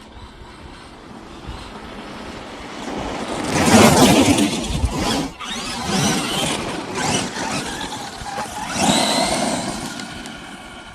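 Electric RC monster truck driving, its motor whining as it speeds up and slows down, loudest about four seconds in and surging again twice later.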